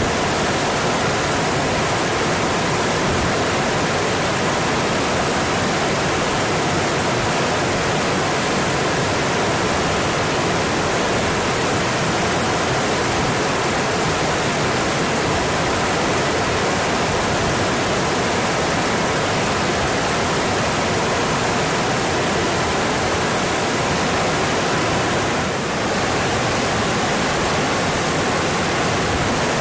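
Mountain stream rushing over its rocky bed: a steady, even rushing of water that barely changes, with a brief slight dip in level near the end.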